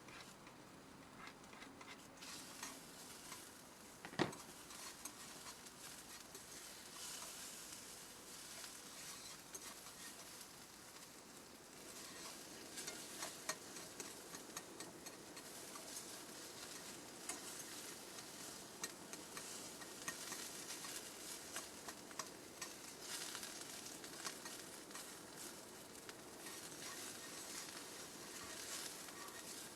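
Food sizzling in a frying pan: a steady hiss thick with many small crackles and spits, with one sharp pop about four seconds in.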